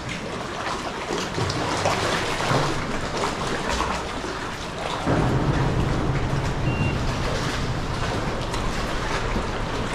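Sea kayak paddling: paddle blades dipping with splashes and water lapping against the hull, getting louder about five seconds in.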